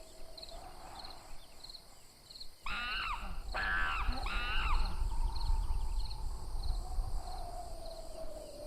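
Jungle soundscape: a high chirp repeating about twice a second over a steady hum. About three seconds in, three loud, screeching animal calls come in quick succession, and a low rumble starts with them and carries on.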